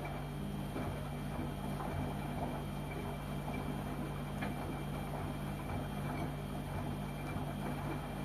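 LG washing machine running with its motor humming steadily over a rough churning noise, and a single brief click about halfway through.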